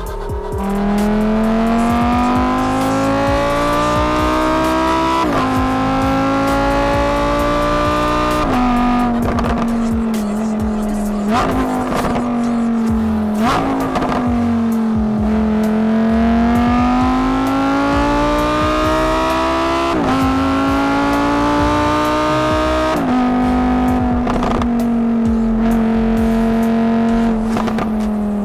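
Lamborghini Huracán STO's naturally aspirated 5.2-litre V10 pulling through the gears: the pitch climbs steadily, then drops sharply at each upshift, several times over. In one stretch the pitch sinks and then rises again.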